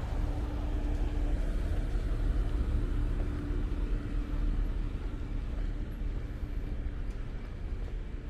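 A motor vehicle's engine running close by, a steady hum over low rumble that fades out about halfway through.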